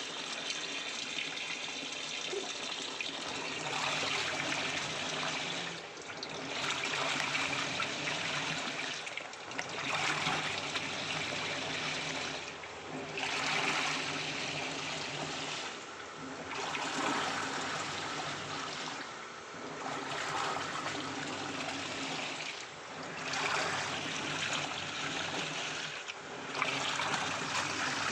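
Polytron PAW85 Zeromatik top-loading washing machine washing: water sloshing in the tub over a low motor hum, surging and easing about every three seconds as the wash action turns back and forth.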